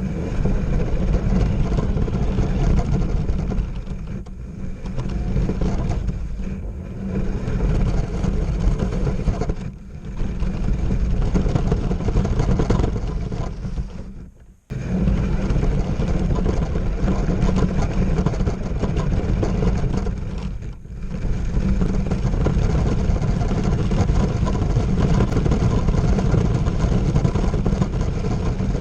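Radio-controlled monster truck driving, a loud, steady rumbling and rattling noise that dips briefly several times and cuts out for a moment about halfway through.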